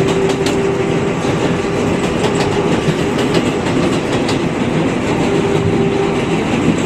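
New York City Subway 7 express train running along the line: a steady rumble of wheels on rail with scattered clicks over the rail joints and a steady whine that fades in and out.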